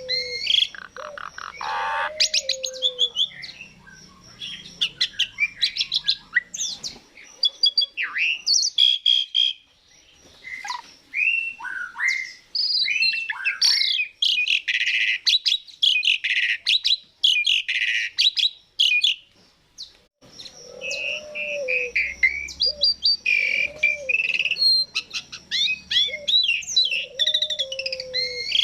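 A jalak suren (Javan pied starling) sings a long, varied chattering song of squeaky whistles, rapid rattling clicks and lower looping notes, with a short pause about twenty seconds in.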